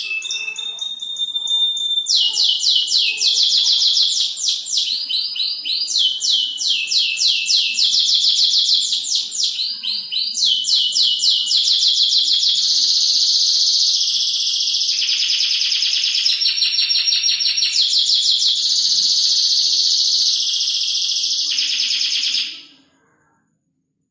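Domestic canary singing a long, loud song of rapid high trills. Each phrase is a fast run of repeated sweeping notes, and the bird switches to a new phrase every second or two. The song stops abruptly near the end.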